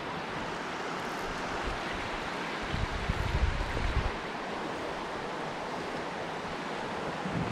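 Steady rush of flowing river water, with a low rumble about three seconds in that lasts roughly a second.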